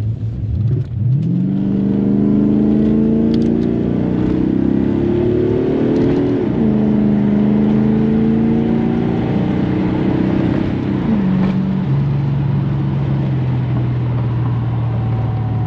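1986 Chevrolet Corvette C4's V8, said to be an upgraded ZR1 engine, accelerating hard under load, heard from inside the cabin. The engine note climbs steadily in pitch and drops suddenly at two upshifts, about six and eleven seconds in, then settles to a steady cruise over tyre and road noise.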